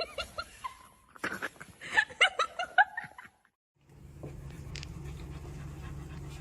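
A person laughing in short bursts for about three seconds. After a brief cut to silence, a steady low hum sets in with faint sounds over it.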